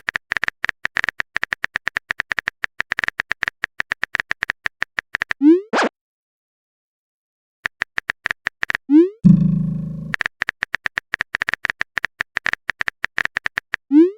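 Chat-app sound effects: rapid runs of keyboard typing clicks, with a short rising pop about five seconds in and again near nine seconds, the sound of a message being sent. The second pop is followed by a low buzz lasting under a second, like a message notification.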